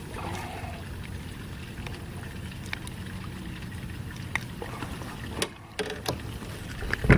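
Kayak on the water while a bass is being fought and landed: a steady low rumble with scattered light clicks and knocks from the boat and fishing gear, and a heavier knock at the very end.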